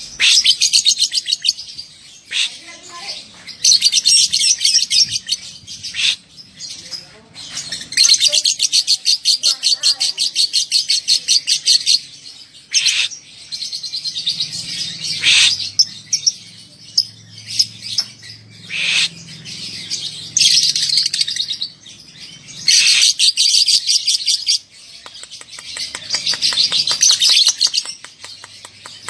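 Young lovebird's 'ngekek' song: long runs of fast, high-pitched chattering trills, each lasting a few seconds, separated by short pauses.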